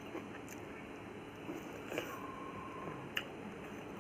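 A person eating quietly: soft chewing with three sharp clicks, one about half a second in, one about two seconds in and one near three seconds. A faint short steady tone sounds just after the middle.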